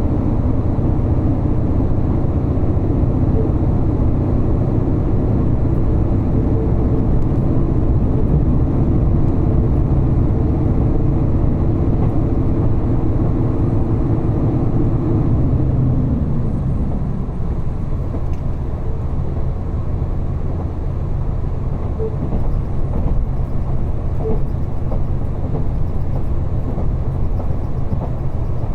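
Diesel railcar running along the line, heard from inside: a steady low rumble with an engine hum that falls away about halfway through, leaving the rolling noise of the wheels on the rails with a few faint ticks.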